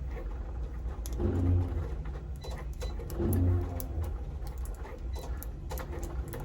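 A whole-house heater running with a low hum that swells twice, about two seconds apart. Small sharp clicks and taps of handling sound over it.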